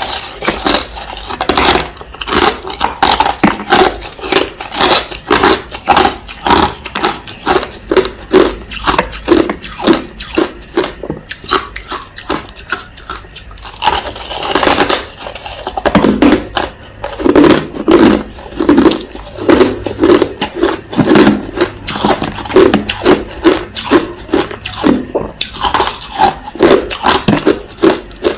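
Crushed ice being chewed close to the microphone: a steady run of crisp crunches, about two to three a second.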